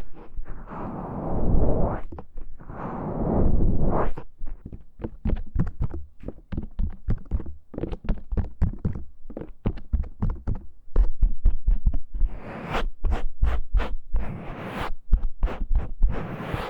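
Close-up ASMR scratching and tapping on the ears of a KU100 binaural dummy-head microphone. It begins with a few swelling rubbing strokes, then a quick run of taps and scratches, with harsher, brighter scratching strokes in the last few seconds.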